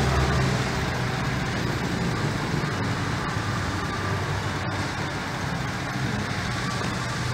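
Toyota Vios four-cylinder VVT-i petrol engine idling steadily, heard from close over the open engine bay.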